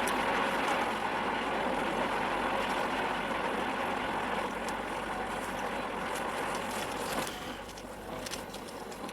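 Steady road and engine noise of a moving vehicle, dropping noticeably about seven seconds in.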